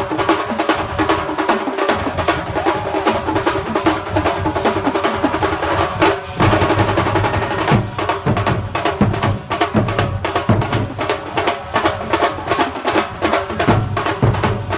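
Thambolamelam drum ensemble playing: fast, dense rolls on snare-type drums over a held melody line. After a short break about six seconds in, heavier bass-drum beats come in under the rolls.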